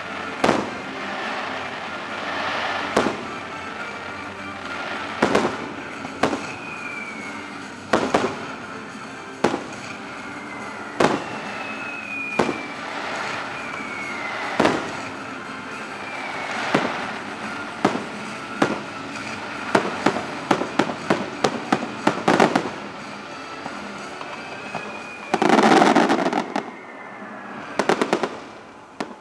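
Fireworks show: repeated aerial shell bursts, a rapid run of bangs about twenty seconds in, and a louder, longer blast near the end, with several short falling whistles. Show music plays underneath.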